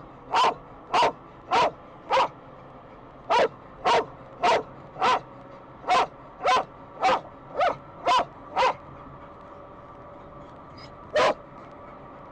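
A dog barking repeatedly, about two barks a second, in three runs of four to six barks, then a single bark after a pause of a couple of seconds.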